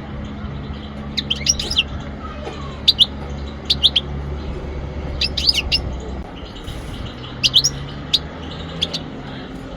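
European goldfinch calling in short groups of quick, high chirps, one group every second or so, over a steady low hum.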